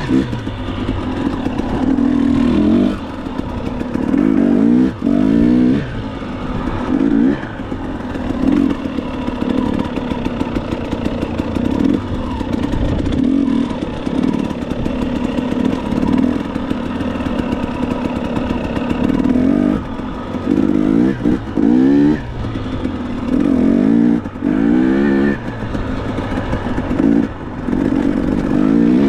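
Dirt bike engine being ridden, revving up and easing off again and again, its pitch climbing with each burst of throttle.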